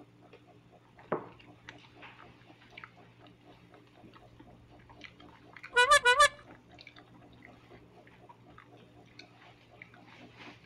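Quiet chewing of a steamed corn dumpling, with soft mouth clicks. About six seconds in comes a brief, loud high-pitched warbling sound that wavers three times.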